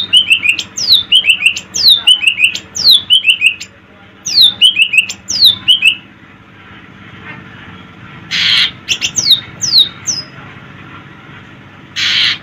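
Cucak ijo (leafbird) singing: clusters of quick whistled notes, each sliding steeply down, through about the first six seconds, then a few more down-slurred notes between two short harsh rasping bursts about eight and twelve seconds in.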